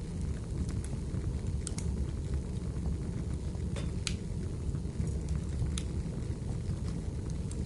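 Wood fire burning in a fireplace: a steady low rumble with a few sharp crackles and pops of the burning firewood, the strongest about four seconds in.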